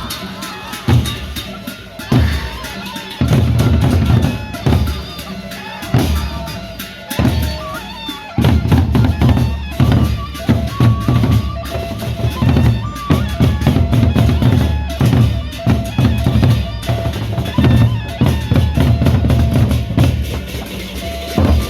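Drum-heavy procession band music: bass and snare drums beat fast and steadily, under a repeating melody line.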